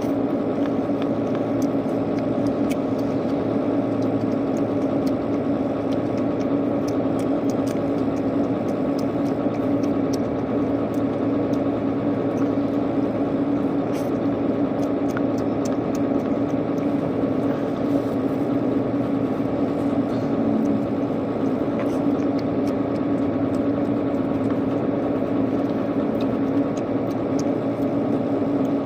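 A steady machine hum runs throughout, with faint, scattered clicks and smacks of chewing and eating over it.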